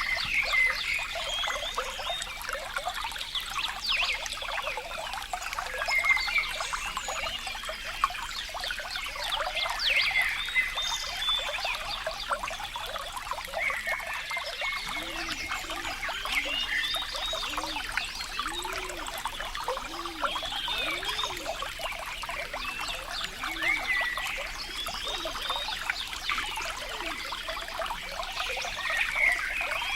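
Water trickling and splashing steadily, with short high chirping calls throughout and a run of low, arching animal calls, about a dozen, from about halfway through.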